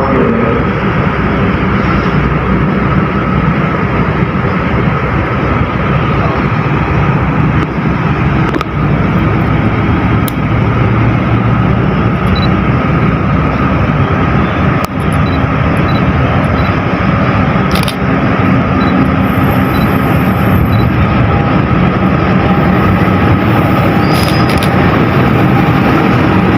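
Departing passenger train running through the station: a steady, loud rumble of the diesel locomotive and coaches rolling on the rails, with a few sharp clicks from the wheels over rail joints.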